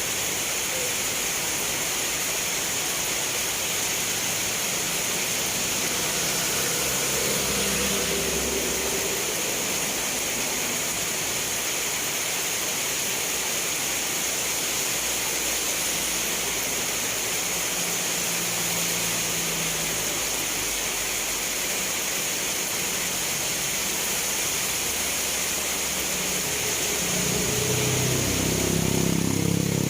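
Steady rain hiss. The low hum of a passing motor vehicle engine comes and goes beneath it, growing louder near the end.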